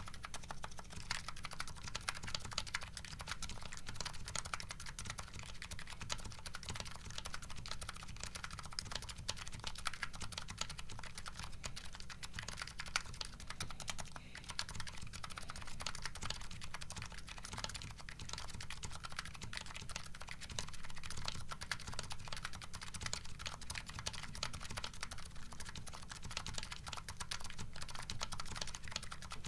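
Nuxros Kraze custom keyboard with MetaKeebs MetaPulse electrocapacitive (EC) switches and JCS-profile keycaps, typed on steadily and quickly: a continuous run of keystroke clacks with no pauses.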